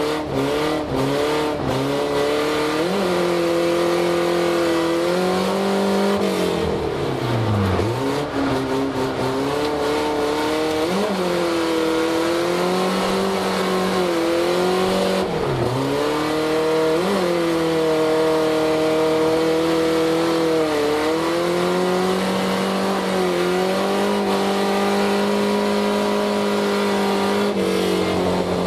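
Nissan 240SX (S13) drift car's engine heard from inside the cabin while drifting. The revs climb and fall over and over as the throttle is worked, with several quick lifts that drop the pitch sharply. The rear end puts the power down without wheel hop.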